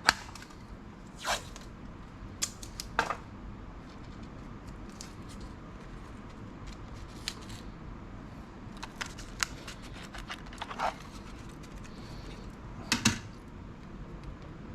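Scattered small clicks, taps and light scrapes of hands and a tool working on a laptop's internals during disassembly, with sharper clicks right at the start and about 13 seconds in.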